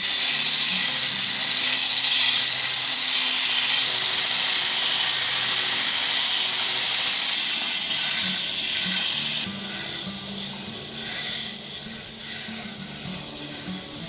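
Loud steady hiss that cuts off abruptly about nine and a half seconds in, leaving a quieter hiss, with faint background music underneath.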